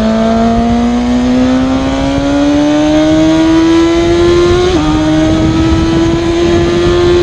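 An engine under acceleration, its pitch rising slowly and steadily. About four and a half seconds in, the pitch drops briefly like a gear change, then keeps climbing.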